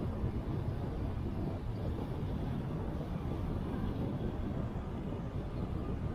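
Motorcycle on the move: a steady low rumble of engine, road and wind noise.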